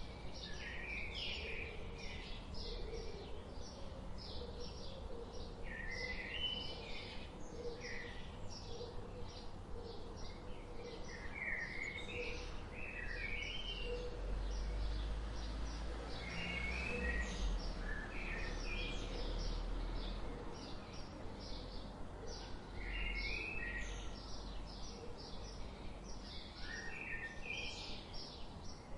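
Several songbirds singing together: one gives short high chirps about two or three times a second throughout, while others sing brief warbling phrases every few seconds. Under the birds runs a low rumble that swells for a few seconds midway.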